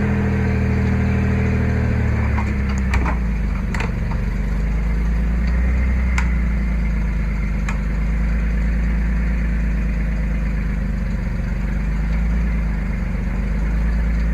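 Truck engine labouring at low speed while towing a boat trailer up a steep dirt track, the clutch being slipped heavily. Its pitch drops about two seconds in, then it runs as a steady low drone, with a few knocks and rattles.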